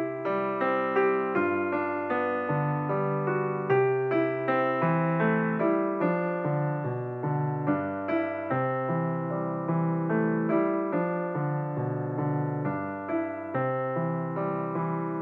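Piano music: a steady run of struck notes that ring and die away, over lower bass notes.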